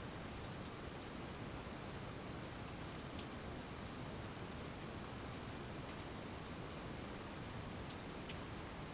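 Steady rain: an even hiss of falling rain, with scattered single drops ticking sharply here and there.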